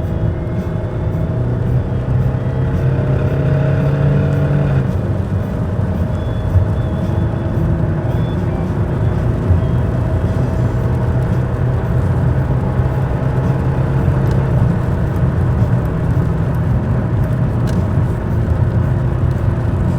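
Mercedes-Benz W124 E 200 TurboDiesel engine pulling the car under acceleration, a steady diesel drone. Its note climbs slightly, then drops about five seconds in.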